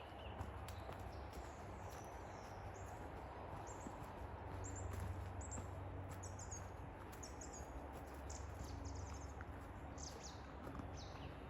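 Forest birds chirping, many short high calls scattered throughout, over a steady low rumble.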